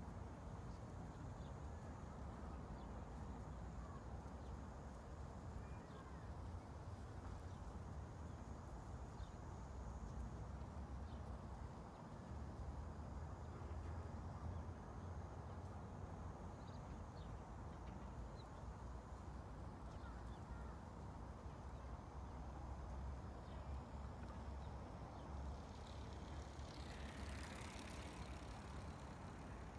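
Quiet ambient recording: a steady low rumble under a faint hiss, with a few faint short chirps and one brief swelling hiss near the end.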